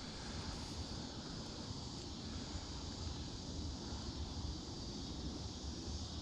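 Wind buffeting the microphone, a fluctuating low rumble, over a steady outdoor hiss.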